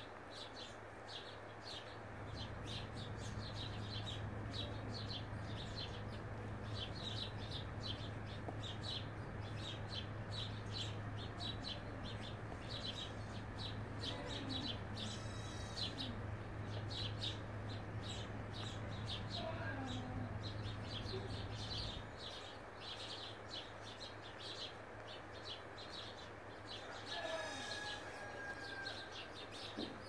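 Small birds chirping over and over in short, high calls. A low steady hum runs underneath until it stops about two-thirds of the way through.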